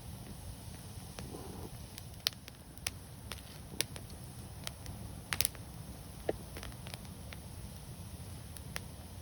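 Wood fire burning with a steady low rumble and irregular crackles and pops, the loudest a quick double pop about halfway through.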